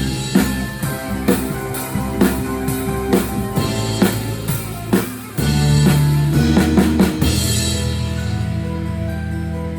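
Rock band playing, the drum kit to the fore with steady kick and snare hits under held bass and chords. About five seconds in the beat breaks off briefly, a short run of drum hits follows, and the band then holds a sustained chord with cymbals ringing.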